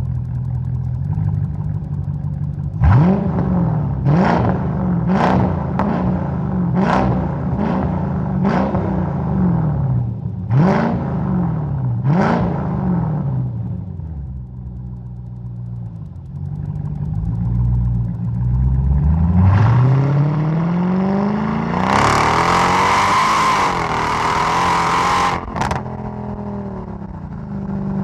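Mercedes-Benz E 55 AMG's supercharged 5.4-litre V8 exhaust idling, then blipped about eight times in quick succession, each rev falling straight back with sharp cracks. Later the revs climb steadily into a loud rush that cuts off suddenly, and the engine drops back to idle.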